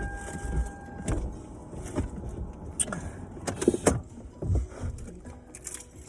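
Knocks, clicks and rustles of takeout food packaging being handled inside a car, with a faint steady tone that stops about a second in.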